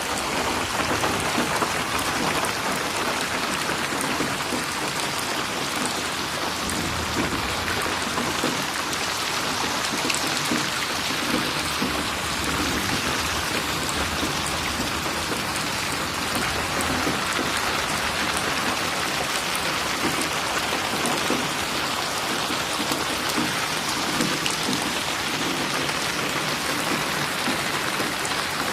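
Steady rain falling, with many close individual drops spattering on a surface.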